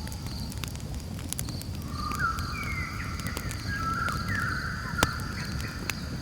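Campfire crackling with scattered sharp pops, the loudest about five seconds in, over a steady pulsing insect trill. Bird calls with short sliding notes come in about two seconds in and run for a few seconds.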